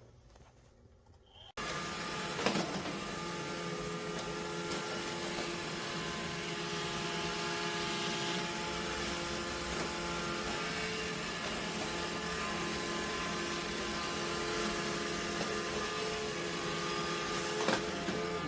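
Robot vacuum running with a steady whir, starting abruptly a little over a second in, with a couple of short knocks.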